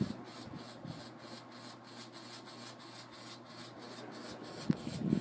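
Tatung Hugger ceiling fan running, a steady low hum with a faint tick about three times a second, and a vibrating noise that comes from the light kit, which is a little heavy for the fan.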